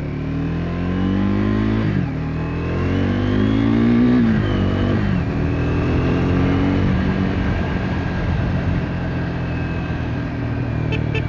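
Triumph Speed 400's single-cylinder engine accelerating through the gears: the engine note climbs and drops back at upshifts about two and five seconds in, then runs steadily.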